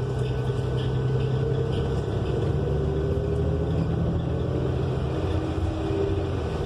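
Cummins Westport L9N natural-gas inline-six engine of a 2018 New Flyer XN35 transit bus, heard from inside the cabin, running steadily with a low drone whose pitch shifts a little as the bus drives. The engine is loud in this bus.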